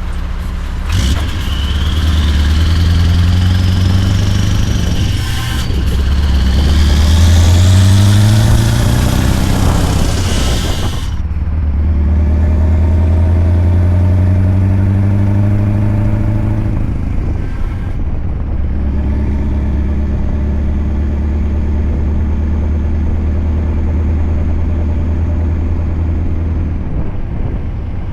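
Scania R580's 16.4-litre V8 with a straight-piped 8-inch exhaust pulling through the gears. The engine note rises, drops at a gear change about five seconds in, and climbs again. After shifts around eleven and eighteen seconds it settles into a steadier pull.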